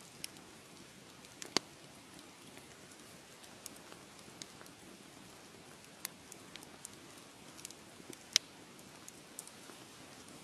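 Wood fire crackling: a quiet steady hiss of burning with irregular sharp pops and snaps, the two loudest about one and a half seconds in and about eight seconds in.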